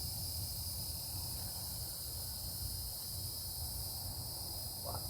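Steady high-pitched hiss over a low rumble, with no distinct event.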